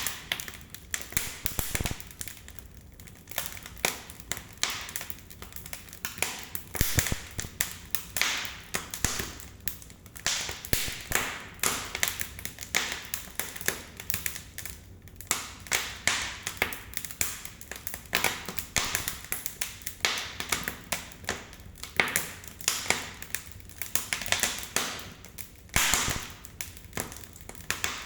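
Firewood burning in a fireplace, crackling and popping with many sharp, irregular snaps over a soft hiss.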